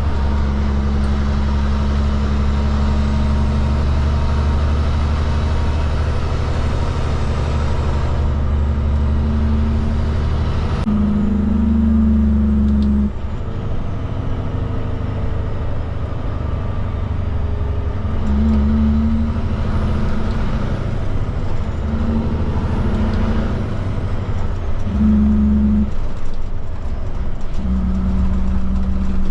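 Kenworth K200 truck's Cummins diesel engine running, a steady low drone that drops away about 13 seconds in, comes back in short spells, and returns steadily near the end.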